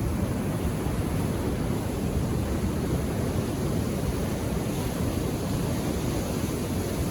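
Ocean surf: a steady, low rush of waves breaking, with no single crash standing out.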